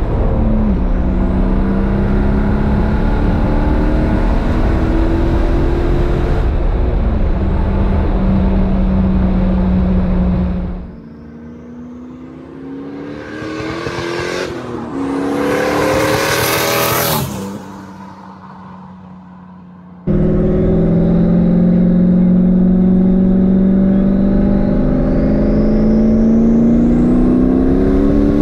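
Turbocharged 1998 Chevrolet Camaro SS V8 engine running under way, a steady drone. Partway through it drops away abruptly to a quieter stretch in which the engine revs, rising in pitch, before the loud steady drone returns suddenly.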